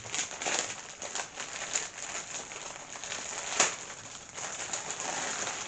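Packaging crinkling and rustling as it is handled to unwrap a plush toy, with one sharper, louder crackle about three and a half seconds in.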